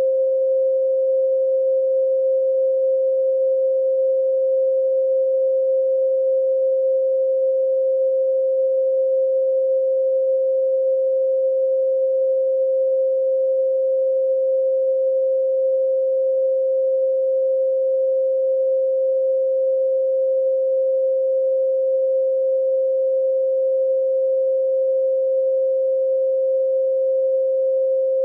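A steady pure sine tone at 528 Hz, held unchanged throughout: the 'solfeggio' healing frequency played for meditation.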